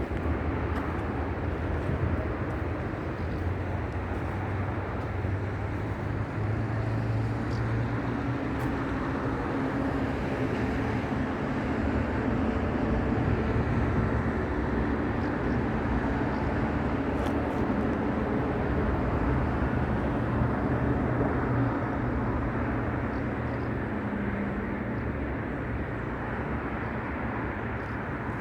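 A steady engine hum with a faintly drifting pitch over a continuous outdoor rumble.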